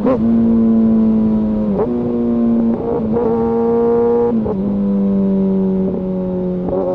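Kawasaki ZX-6R's inline-four engine and exhaust running under way at steady revs. The pitch breaks briefly and steps to a new level three times: near the start, about two seconds in, and about four and a half seconds in.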